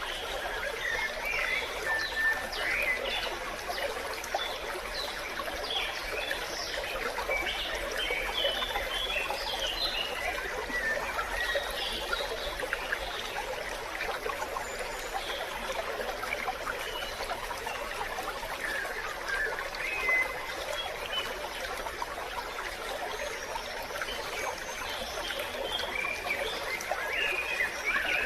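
A small stream trickling and babbling steadily over rocks, with birds chirping on and off above it.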